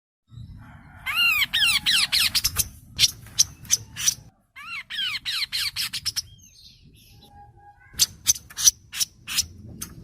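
Kaso-kaso bird song played as a masteran tutor recording. A quick run of arched whistled notes is followed by sharp chirps, and the run repeats. Near the end comes a fast series of sharp chirps.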